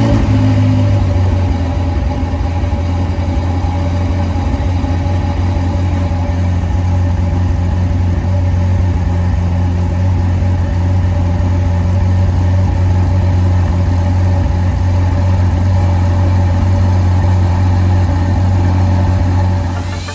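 Ferrari Portofino's twin-turbo V8 catching with a sudden loud onset on a cold start, then holding a steady, loud cold idle.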